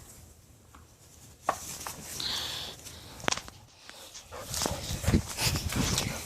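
Dogs moving about at play, with a few sharp clicks and knocks, busier near the end.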